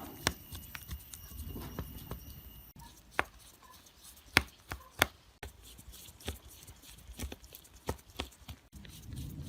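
Sharp, irregular clicks and taps of small hard parts and tools being handled on a smartphone under repair, about ten in all, the loudest about four and a half and five seconds in. A faint high whine runs under the first couple of seconds, and the background noise changes abruptly a few times.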